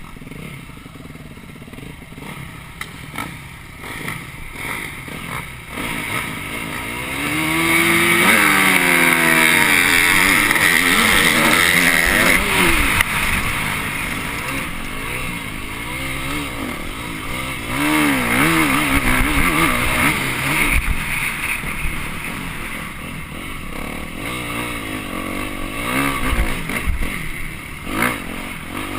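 Off-road motorcycle engine being ridden hard, its pitch rising and falling as the throttle opens and closes, loudest for several seconds about a quarter of the way in. Rattling and rushing noise ride along with it.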